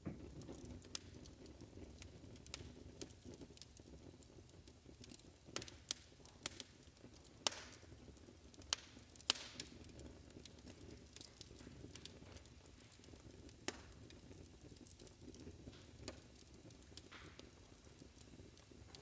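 Fireplace fire crackling: irregular sharp pops and snaps, a few louder ones, over a steady low rumble of the flames.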